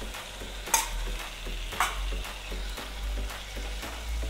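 Spatula stirring and scraping chicken pieces through freshly added yogurt and spices in a kadai, with the mixture sizzling. Two sharper scrapes stand out, about a second in and about two seconds in.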